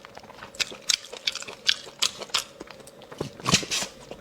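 Marrow being sucked and slurped out of bone pieces: a string of short, wet sucks and clicks, a few a second, with a longer, louder slurp about three and a half seconds in.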